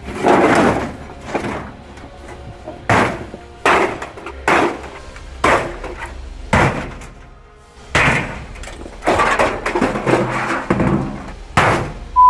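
Washing machine being smashed: a series of heavy, sharp impacts on its body, roughly one a second at an uneven pace, over background music.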